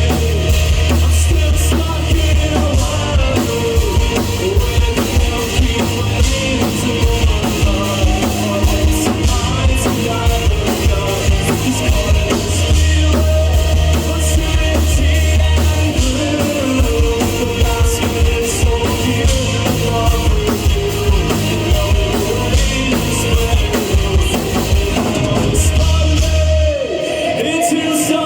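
A rock band playing live, with a drum kit, heavy bass notes and a singer.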